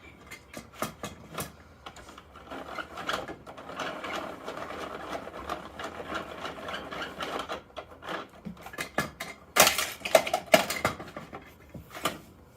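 Plastic clicking and rattling of a Bruder Mack toy garbage truck being worked by hand. A few quick clicks come first, then a busy, continuous rattle for several seconds, then a burst of louder clicks and clatter near the end.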